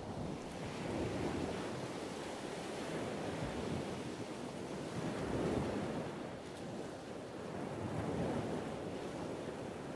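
Water washing with some wind, an even rushing that swells and eases every two to three seconds, like waves.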